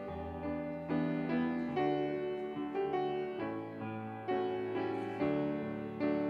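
Piano playing slow chords, a new chord struck about once a second and left to ring and fade.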